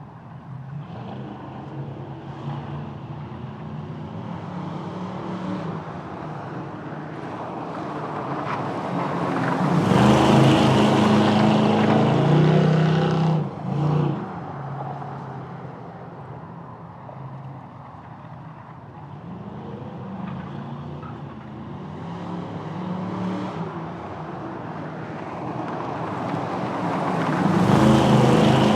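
Car engines under hard acceleration on a drag strip. The sound builds to a loud peak about ten seconds in, breaks off briefly for a moment and fades, then a second run builds up loud near the end.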